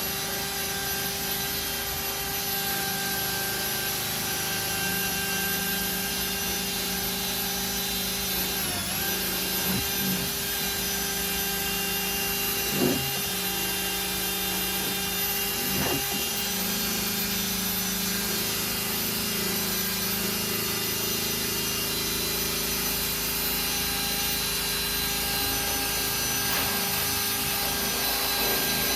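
Small electric power tool running steadily, its pitch dipping briefly about nine seconds in as it is loaded, with two light knocks near the middle.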